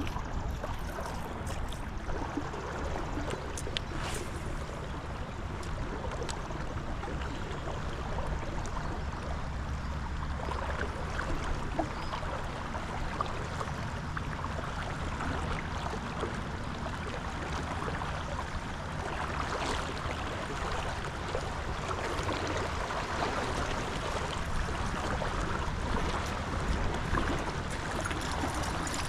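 Creek water rushing steadily in a fast current, with a low rumble underneath.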